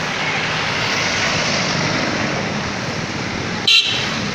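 Steady rushing noise of wind and passing road traffic heard while riding an e-bike, with one brief, sharp, high-pitched blip near the end that is the loudest moment.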